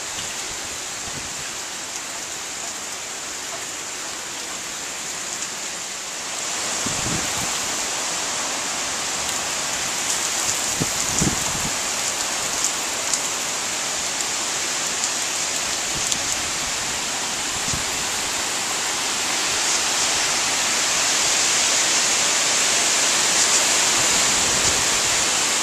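Hurricane Irene's heavy rain and gusting wind make a steady hiss. It grows louder about six seconds in and again near the end, with a few low thumps.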